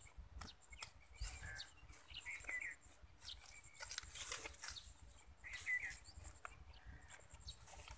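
Faint bird chirps: a few short calls, about two and a half and five and a half seconds in, over quiet background with scattered soft clicks.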